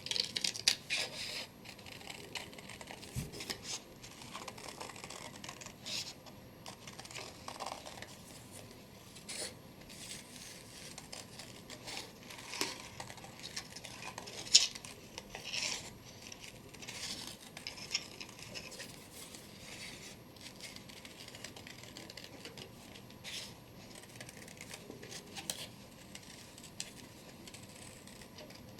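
Scissors cutting paper in short irregular snips, with paper rustling as the sheet is turned, and one sharper click about halfway through.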